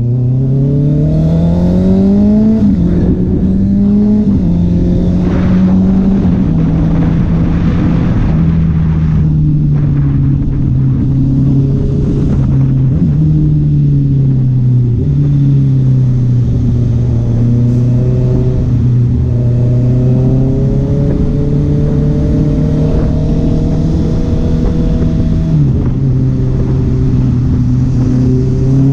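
Honda CB650R's inline-four engine and exhaust under way: it revs up over the first two seconds, then drops in pitch in several steps as gears change, holding a steady note at cruising speed in between and rising again near the end.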